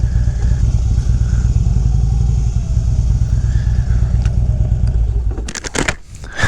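Motorcycle engine running with a steady low rumble, which stops about five and a half seconds in. A few sharp clicks and scrapes follow.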